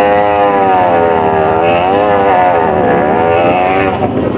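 Motorcycle engine running on a trail ride, its pitch rising and falling as the throttle changes.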